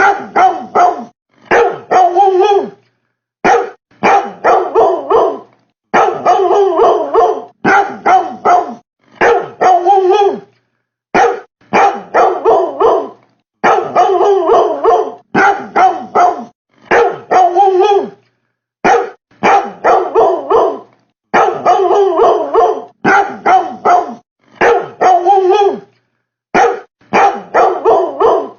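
Barking woofs in short rapid clusters of two to four, with dead silence between clusters, repeating over and over as a loop; the title puts the barking down to a refrigerator.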